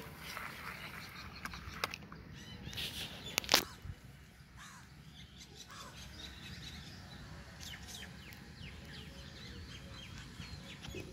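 Birds chirping, many short calls through the second half, over low outdoor background noise. A few sharp clicks come in the first four seconds, the loudest about three and a half seconds in.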